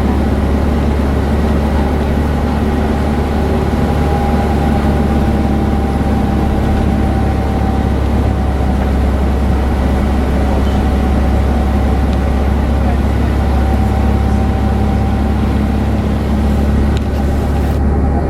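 Airbus A321-200 cabin noise: the steady drone of engines and airflow heard from inside the passenger cabin, with a faint steady whine over it.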